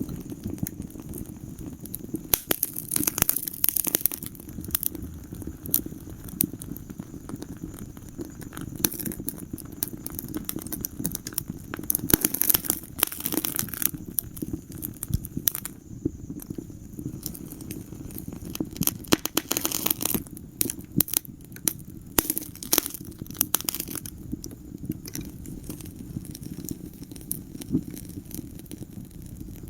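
Wood fire burning in a fireplace: a steady low rumble of flames with irregular sharp crackles and pops, coming in thicker clusters every few seconds.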